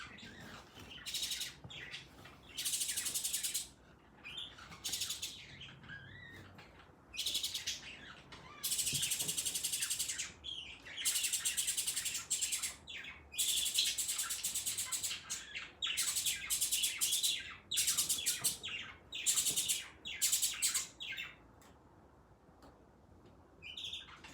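Birds chirping in repeated bursts of rapid, high calls, which die away near the end.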